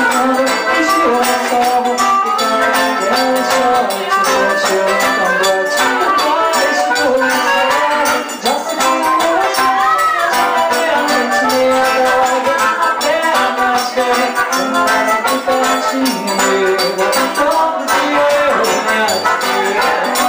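Live forró band playing an upbeat, rhythmic song: accordion and guitar over a zabumba drum, with hand percussion shaking and rattling steadily.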